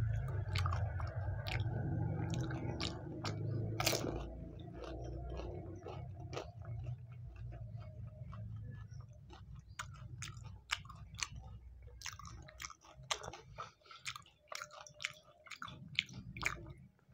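Close-miked chewing of pani puri: a dense, steady mouthful of chewing at first, then a run of many sharp crisp crunches from about halfway through.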